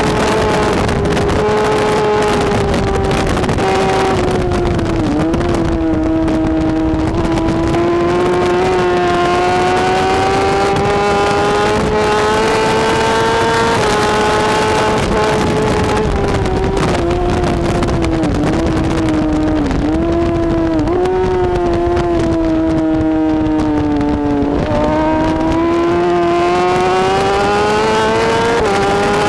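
BMW S1000RR superbike's inline-four engine running hard at racing speed, heard continuously. Its pitch climbs and eases with several sharp dips at gear changes, the clearest about five seconds in, a cluster around eighteen to twenty-one seconds, and one near the end.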